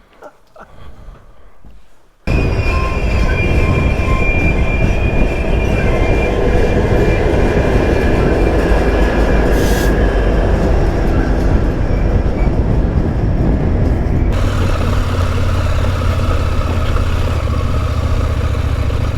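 Dual-sport motorcycle being ridden on a dirt road: the engine running under a heavy, steady rumble of wind and road noise on the onboard microphone. It starts abruptly about two seconds in, and the sound shifts suddenly about two-thirds of the way through.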